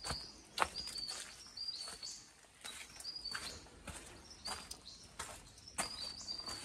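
A small bird repeating a short, high two-note chirp about once a second, over irregular clicks and knocks.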